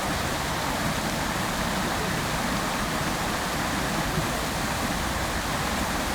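Fountain water splashing and falling into its basin in a steady, even rush.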